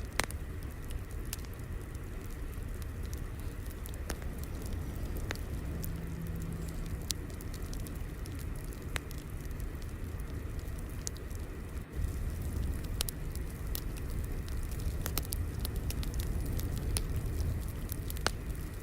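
Wood fire crackling: a steady low rumble of burning with irregular sharp pops and snaps.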